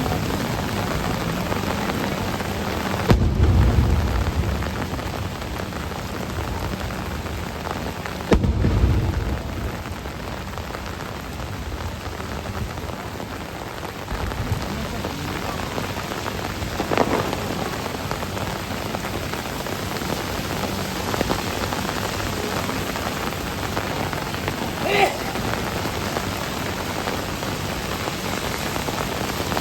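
Heavy rain falling steadily, with two sudden deep booms about three and eight seconds in.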